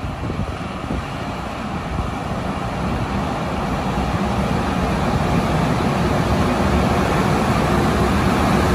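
JR Freight EH500 electric locomotive hauling a container freight train as it approaches: a steady rumble of wheels on rail that grows louder as the train nears.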